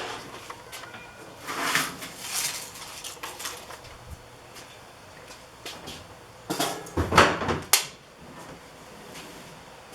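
Intermittent handling noises: scrapes and knocks, with a short burst about two seconds in and the loudest cluster of clatter around seven seconds in.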